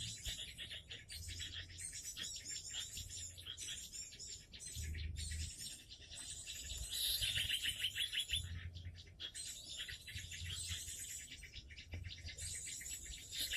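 Small birds chirping and calling steadily, a dense run of rapid high-pitched notes, with low rumbles coming and going underneath.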